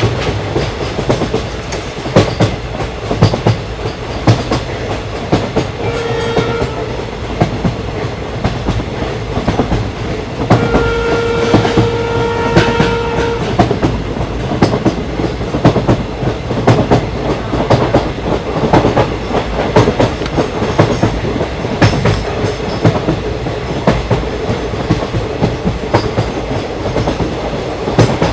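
Indian Railways train running along the track, its wheels clacking over the rail joints. The horn sounds briefly about six seconds in, then gives a longer blast of about three seconds a few seconds later.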